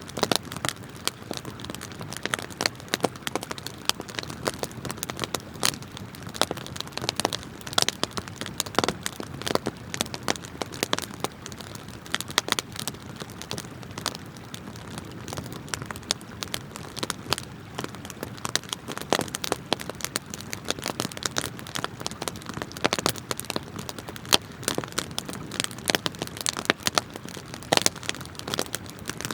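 Wood campfire crackling: many irregular sharp pops and snaps, several a second, over the steady rush of a flowing river.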